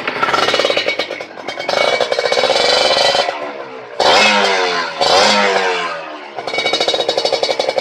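Two-stroke Kawasaki Ninja 150R motorcycle engine through an aftermarket exhaust, being revved: held revs at first, then two quick throttle blips about four and five seconds in with the revs falling away after each, then a steady pulsing idle.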